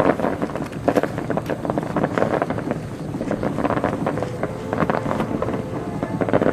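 Fireworks display: a dense, irregular run of shell bursts and crackling, with several louder bangs.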